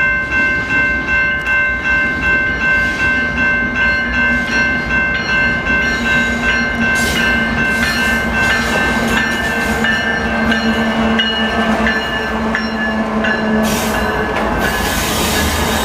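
Canadian Pacific freight locomotives approaching with the bell ringing about twice a second. From about halfway through, the engine and rail noise of the passing train grow louder.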